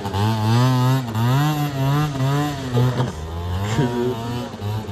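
Small 50cc motorbike engine revved up and down over and over, its pitch rising and falling about once a second, then settling lower about three seconds in.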